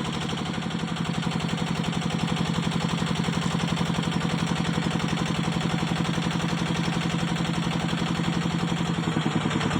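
Small crank-started engine on a flood-water pump, running steadily right after starting, with an even, rapid firing beat. The sound shifts slightly near the end.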